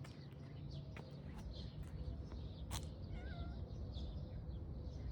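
Outdoor ambience: short bird chirps and calls over a steady low rumble, with one small warbling call about three seconds in.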